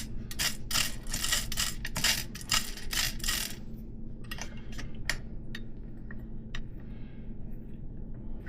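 Metal tools clicking and clinking against a BMX hub's axle and fittings: a quick run of sharp clicks for about the first three seconds, then only a few scattered clicks.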